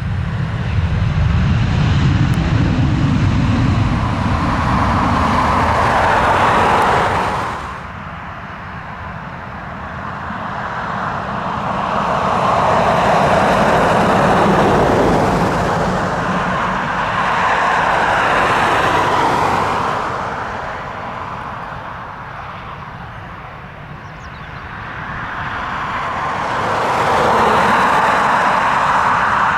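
Jet airliner engine noise, swelling and fading several times, with a deep rumble at the start that drops off suddenly about seven seconds in.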